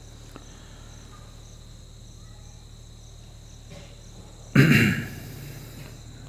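Crickets chirping steadily over a low hum, with one short loud rush of noise about four and a half seconds in.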